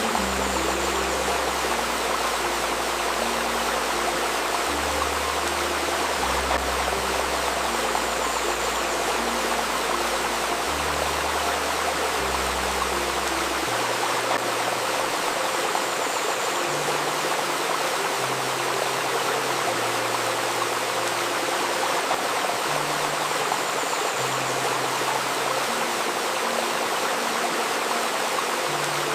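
Steady rushing and babbling of a river stream, with soft sustained low tones of 528 Hz healing music layered underneath that change note every second or two. The deepest bass notes drop out about 14 seconds in.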